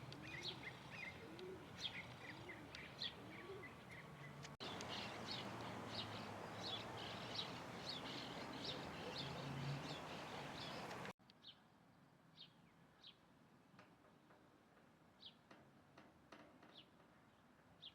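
Small birds chirping: short, high calls repeated about twice a second at their busiest, over a steady background hiss. The background changes abruptly twice where the recording cuts from one clip to the next.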